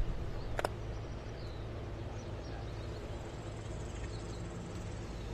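Outdoor ambience: a steady low hum, with a few faint high chirps and one sharp click just over half a second in.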